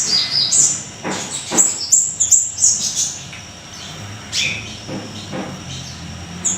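A small songbird sold as 'siri-siri' singing a fast run of sharp, high chirps and quick down-slurred notes, with a few more spaced calls toward the end.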